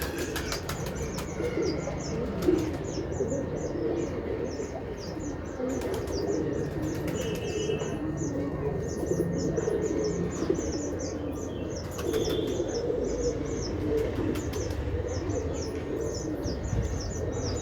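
A flock of domestic pigeons cooing steadily. A string of short high chirps repeats a few times a second, and wings flap and clap now and then.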